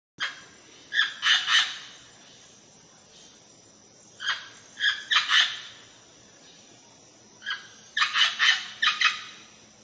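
Dog barking in three bursts of several quick, high-pitched barks.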